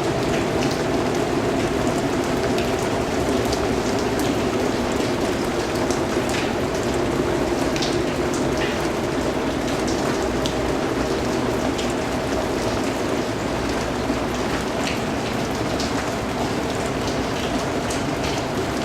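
Steady rain falling on a surface, an even patter with individual drops tapping out here and there.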